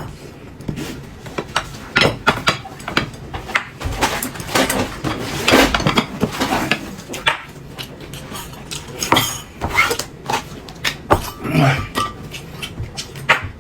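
Tableware clinking and knocking while people eat: bowls, plates and utensils being handled, in many irregular sharp clicks.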